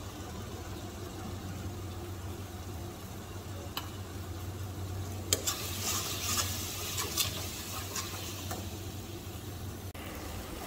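A metal spatula stirring and scraping onion-garlic masala in a kadai, the masala sizzling in mustard oil. The scraping comes in sharp clicks from about halfway, over a steady low hum.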